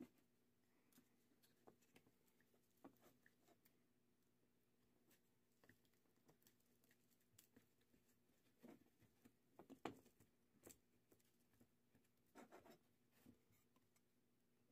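Faint, scattered clicks, taps and light scrapes of small parts being handled as the cells and plastic case of a Ryobi 12V drill battery pack are reassembled. A brief cluster of louder taps comes near the middle and another near the end.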